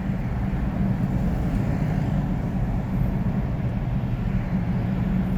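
Steady engine and tyre noise of a ute driving on the road, heard from inside the cabin.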